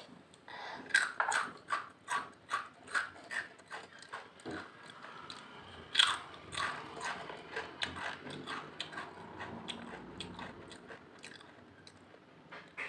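Close-up crunching of Lays potato chips being chewed: a quick run of crisp snaps, about three a second, then one loudest crunch about halfway through, after which the crunching grows fainter.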